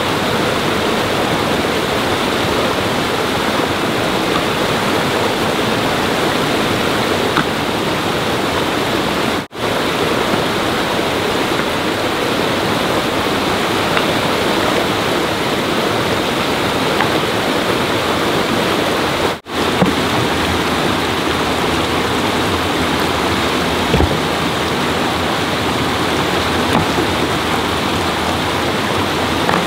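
Loud, steady rush of flowing water, dropping out for a moment twice.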